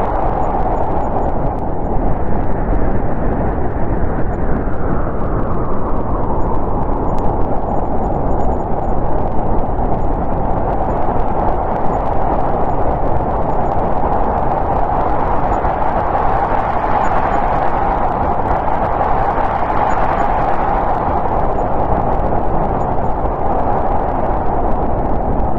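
Steady howling winter wind of a snowstorm, a dense rushing noise that slowly swells and eases.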